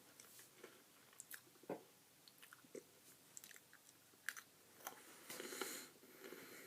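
Faint chewing of a crunchy Pocky biscuit stick, with scattered crisp crunches and a louder, rougher stretch of chewing about five and a half seconds in.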